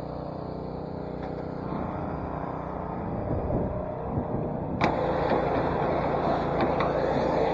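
Pressure washer running steadily with a low hum, then a sudden, louder spray hiss starts about five seconds in as the water is let loose.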